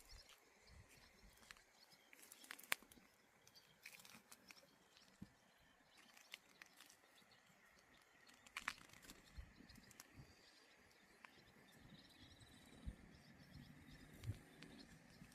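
Very quiet outdoor forest ambience: a faint hiss with scattered small clicks and crunches, a sharp one about three seconds in and a cluster near the middle, and faint high calls of birds or insects in the second half.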